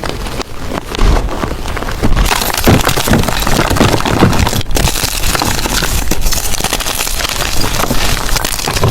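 Blocks of gym chalk being crushed and crumbled by hand, a dense run of small crunches and crackles that thickens and brightens about two seconds in.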